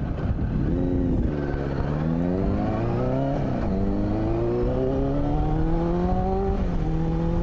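Suzuki Katana 600 (GSX600F) inline-four motorcycle engine accelerating under way, its pitch climbing steadily in each gear and dropping at two upshifts, about three and a half seconds in and near the end.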